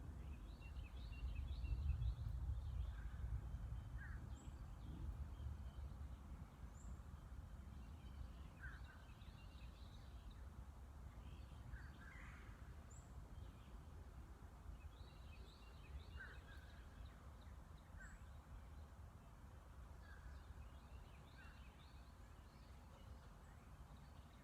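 Outdoor ambience of scattered short bird calls and high chirps over a faint low rumble, which is strongest in the first few seconds and then dies down.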